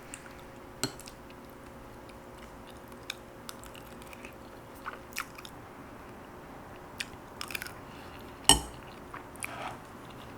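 Close-up eating sounds: chewing with scattered short crunchy bites, typical of pickles eaten with tomato risotto. One louder sharp click, like a spoon knocking the dish, comes about eight and a half seconds in.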